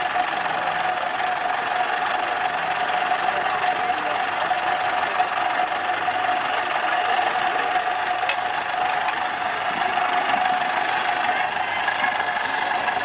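A truck's diesel engine runs steadily with a constant high tone over the clatter. There is a short click about eight seconds in and a brief hiss near the end.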